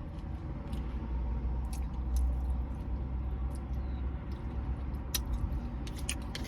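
A person eating spaghetti, chewing with scattered light clicks, over a steady low rumble in the car's cabin.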